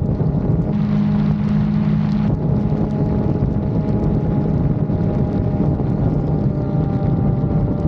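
Motorcycle engine running steadily while riding, its pitch holding nearly level, with wind rushing over the microphone.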